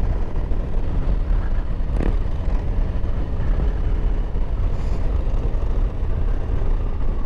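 Harley-Davidson Road Glide's V-twin engine running at road speed under a steady rush of wind noise, with one short click about two seconds in.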